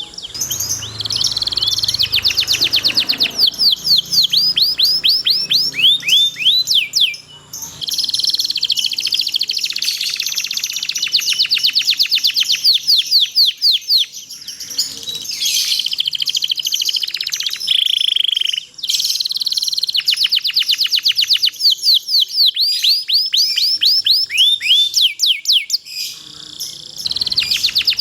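Domestic canary singing: long, fast rolling trills of rapidly repeated high chirps and down-sweeping notes, broken by a few short pauses.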